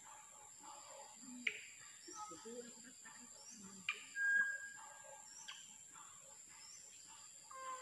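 Birds calling in short chirps and sharp clicking notes, with a louder held whistle about four seconds in. A steady high-pitched drone of insects runs underneath.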